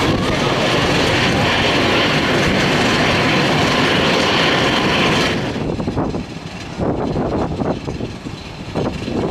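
A jet airliner's engines running loud and steady, cutting off abruptly a little past halfway, after which strong wind buffets the microphone in uneven gusts.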